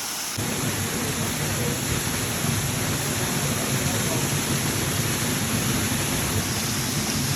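Waterfall rushing: a steady noise that grows a little louder and fuller about half a second in.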